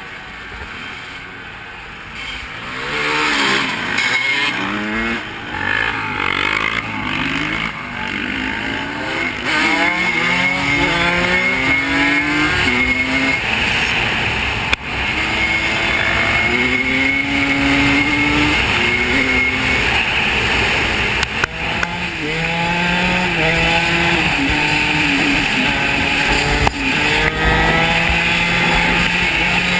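Off-road vehicle engine revving hard and shifting up through the gears again and again, the pitch climbing then dropping at each shift; quieter for the first few seconds.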